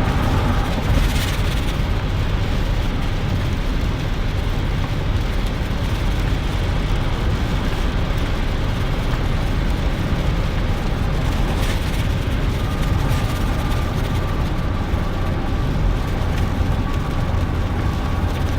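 Steady in-cab driving noise of a 2001 GMC Sierra pickup on a wet road in the rain: engine and tyre noise under a hiss. A faint steady whine comes in after about twelve seconds.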